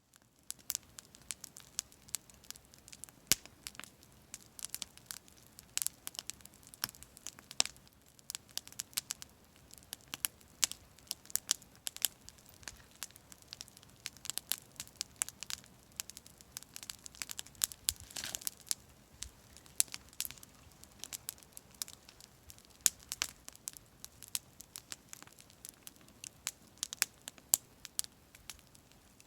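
Campfire crackling: burning wood gives off irregular sharp pops and snaps over a faint hiss, with a brief hissing flare about two-thirds of the way through.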